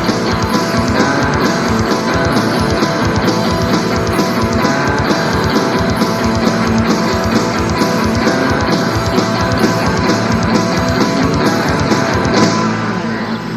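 Instrumental ending of a heavy rock song: electric guitar, bass and drum kit with fast drum strokes, closing about twelve seconds in on a final crash, the last chord left ringing and fading.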